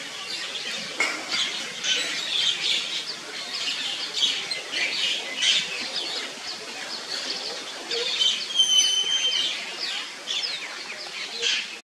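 Wild birds chirping and calling in the surrounding trees, many short quick chirps overlapping one another, with one held whistle-like note lasting about a second, around nine seconds in.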